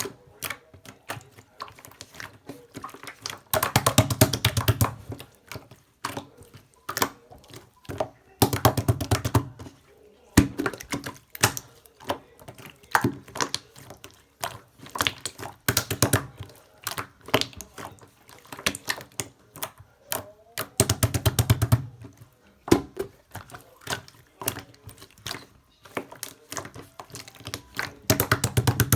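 Pink slime being squeezed, poked and folded by hand, giving a steady run of sticky clicks and small air-bubble pops. Four times it breaks into a longer stretch of fast, dense crackling.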